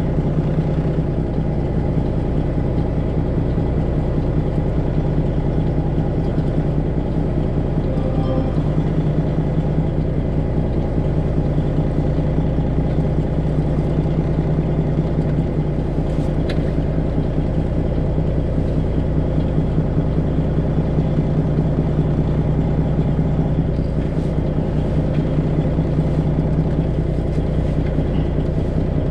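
Detroit Diesel 12.7-litre engine of a Freightliner Classic XL semi truck running steadily.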